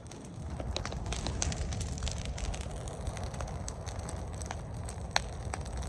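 Campfire burning, a steady low rush with scattered sharp crackles and pops of the wood.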